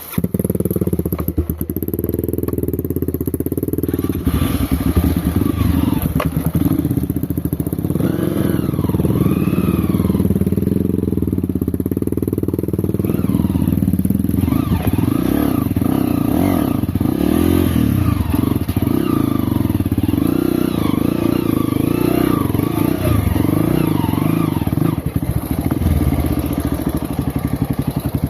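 Off-road motorcycle engine running and revving up and down repeatedly while riding through dense brush.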